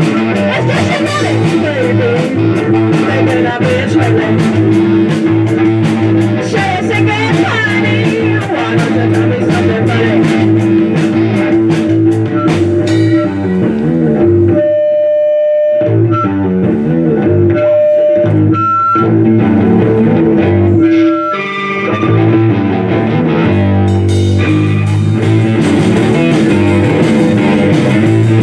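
Rock band playing an instrumental passage with guitar and drum kit. The drums drop out about halfway through, leaving held guitar notes, and the full band comes back in near the end.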